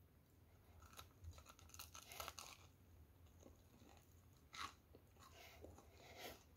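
Faint close-up eating sounds: a bite into a hot sandwich of homemade bread with a baked cheese crust, then chewing, heard as a string of soft crunches.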